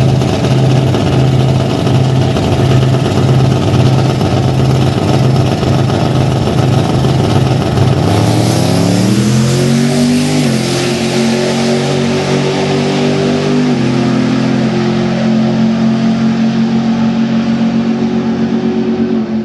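Single-turbo Chevy race truck engine holding a steady, pulsing note, then launching about eight seconds in. Its pitch climbs, drops twice as it shifts up, and settles into a steady pull.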